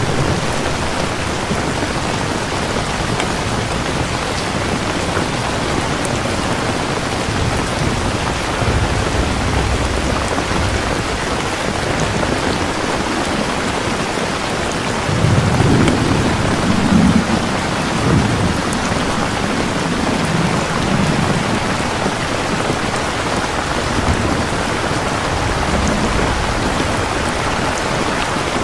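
Steady heavy rain with rolling thunder: low rumbles build about halfway through, loudest for a few seconds, then fade into softer grumbles under the rain.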